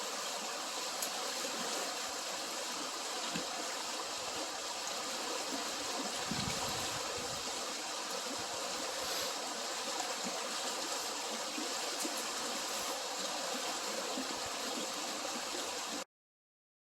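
Eklutna River water rushing steadily during a water release. The sound cuts off suddenly near the end.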